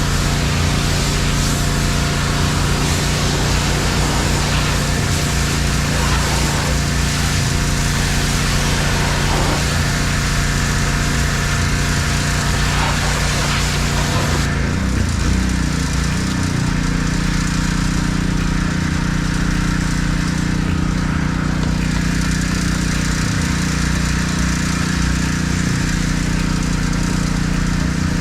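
Gas-engine pressure washer running steadily, with the hiss of the water spray over the engine. About halfway through the spray stops and the engine note rises slightly as the load comes off.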